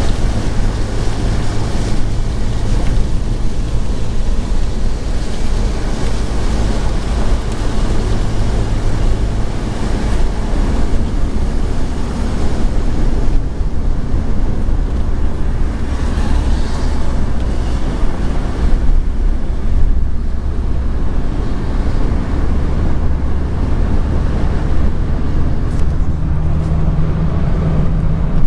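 Vehicle driving on a wet road in rain: a steady hiss of tyres and rain over a low engine hum that shifts in pitch a couple of times, rising near the end.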